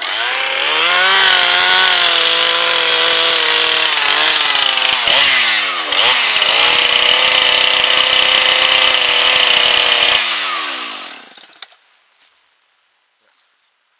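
Gas chainsaw revved up to full throttle and cutting into red oak wood, the engine note dipping briefly twice in the middle. The revs drop about ten seconds in and the saw fades away to quiet.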